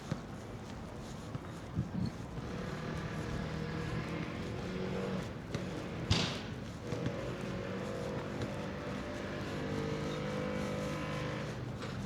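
A motor engine running steadily at low speed, a low hum that sets in about two seconds in and eases off near the end, over outdoor street noise. A short, sharp noise stands out about six seconds in.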